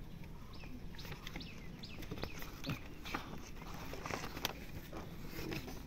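Faint outdoor background with scattered short bird chirps and a few light clicks.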